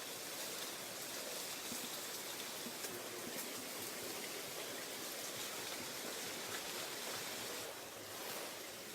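Water running steadily over a man-made waterfall.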